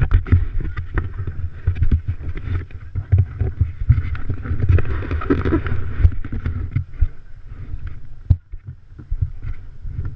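Wind buffeting the microphone in heavy, irregular low thumps, over the raspy drone of motocross bikes' engines that swells about halfway through.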